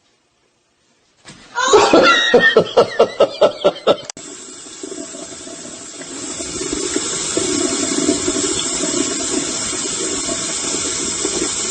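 A person laughing in quick rhythmic bursts for about two seconds, then, after a cut, a steady rush of running water.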